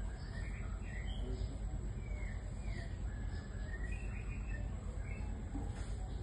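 A young remetuk (gerygone) singing: a series of short, thin whistled notes that slide up and down in pitch, over a steady low rumble and a faint steady high whine.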